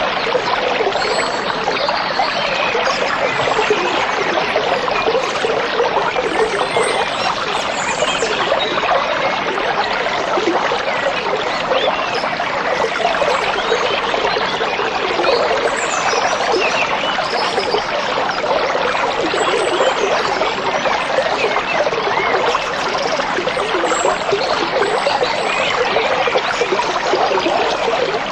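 A stream flowing steadily over stones, a continuous babbling trickle, with a few faint bird chirps above it.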